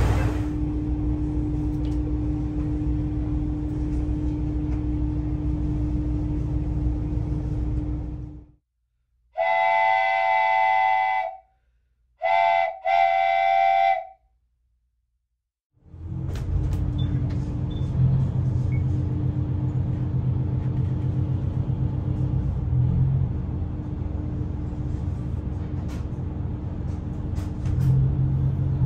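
ET122 diesel railcar running, with a low rumble and a steady hum. About eight seconds in it cuts to silence, and a two-tone train horn sounds twice: one long blast, then a short toot followed by a longer blast. The railcar's running noise starts again about halfway through.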